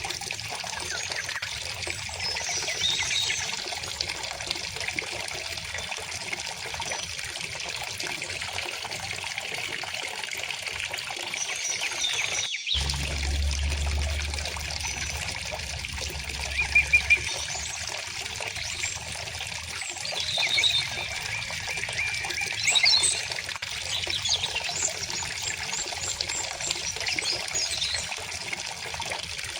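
A stream or small river flowing steadily, with songbirds chirping and singing over it at intervals. There is a brief gap in the sound about halfway through, after which a low rumble sits under the water for a few seconds.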